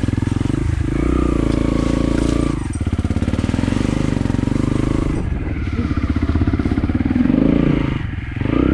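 Trail motorcycle engine pulling uphill on a forest road, revs rising and falling with the throttle and dropping briefly about every two to three seconds, the deepest dip near the end.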